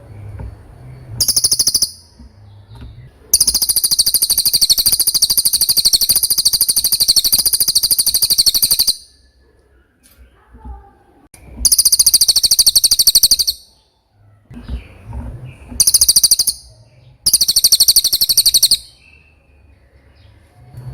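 Cililin song: very high, rapid buzzy trills in bursts, a short one about a second in, a long one lasting about five seconds, then three shorter ones of one to two seconds each.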